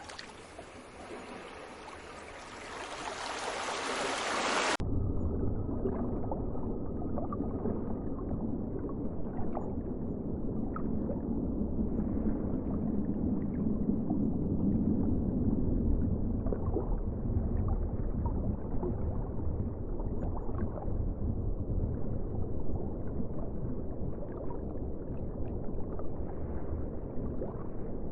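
Ocean water ambience: a bright, steady hiss of surf for about the first five seconds, then an abrupt cut to a muffled, low rumbling water sound with faint gurgles and ticks, swelling a little in the middle.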